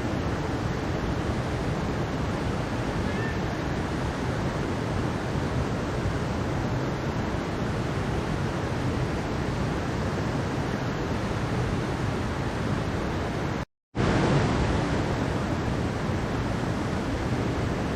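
Mountain valley stream water rushing steadily over rocks, a continuous even wash of sound. It cuts out to silence for a split second about three-quarters of the way through, then comes back slightly louder.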